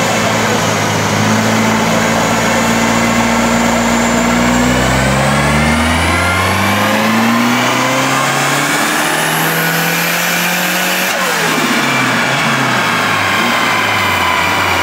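Volvo 740 Turbo's engine pulling at full load on a chassis dynamometer, revs climbing steadily for about eleven seconds with a rising whine. About eleven seconds in, a sharp crack ends the pull and the revs fall away.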